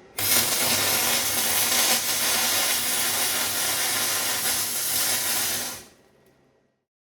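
A power tool runs steadily with a loud hissing noise for about five seconds, then switches off and winds down.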